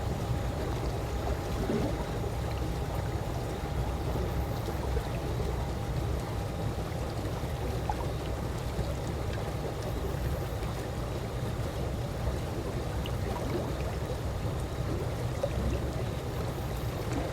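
Calm swimming-pool water gently lapping, with small irregular splashes over a steady low rumble.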